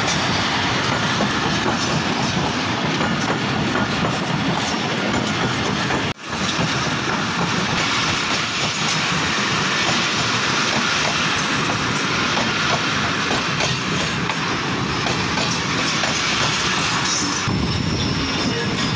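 Passenger express train coaches rolling past along a station platform as the train slows to stop, wheels clattering steadily over the rail joints with some high wheel squeal. There is a brief break about six seconds in.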